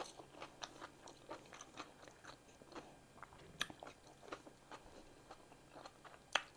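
A person chewing food with many small, quiet mouth clicks, and two sharper snaps, one about three and a half seconds in and one near the end as a chip is bitten.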